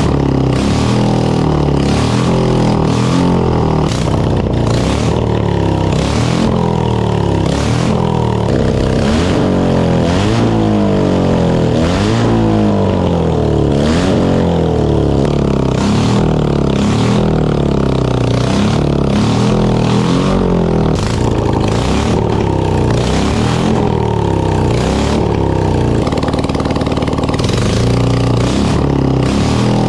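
1980s air-cooled BMW boxer twin engine being revved again and again, its note sweeping up and falling back about once a second, with frequent sharp cracks and pops.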